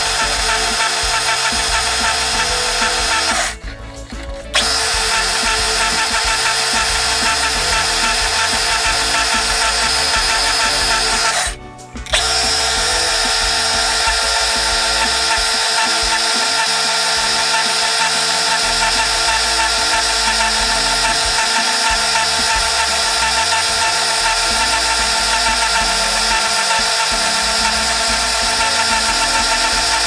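Lathe spinning with a hand-held turning tool cutting into cast epoxy resin, a steady scraping hiss over the motor. It drops away briefly twice, about four and about twelve seconds in.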